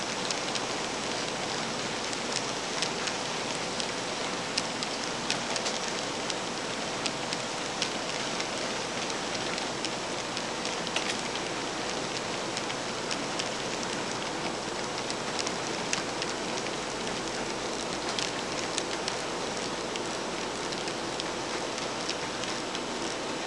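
N scale model freight train running on its track: a steady rolling hiss dotted with many small clicks, over a faint steady hum.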